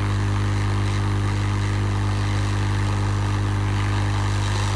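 Lukey 852D+ hot air rework gun blowing steadily onto a circuit board to desolder an IC: a constant low hum with an even rush of air above it.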